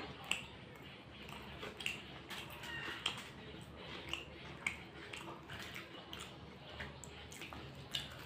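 Close-miked chewing of fried snacks (samosa and alur chop), with sharp, short mouth clicks at irregular intervals about once a second and a fresh bite near the end.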